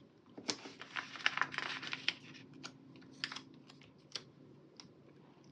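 Small paper sticker strips being peeled from a sticker sheet and pressed onto a paper planner page: a run of light clicks and crinkles, closely spaced for the first two seconds, then sparser.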